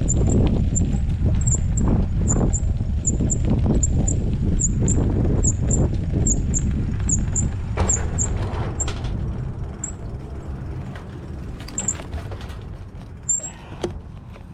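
Riding a mountain bike: a low rumble of wind and tyres on the trail, with a short high squeak from the bike repeating about twice a second. The squeaks space out and the rumble fades after about eight seconds as the bike slows.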